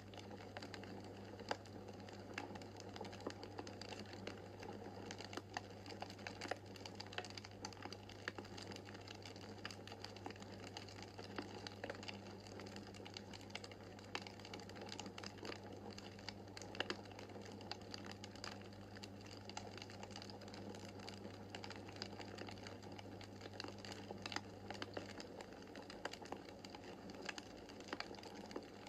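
Wood fire in a fireplace crackling: a steady stream of small sharp crackles and pops over a soft, even hiss of the flames.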